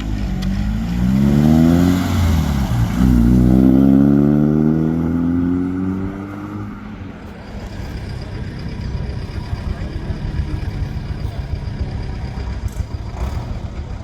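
A vehicle engine accelerating, its pitch climbing, dropping sharply about three seconds in as at a gear change, then climbing again before it fades away after about six seconds. A low steady rumble of engines remains.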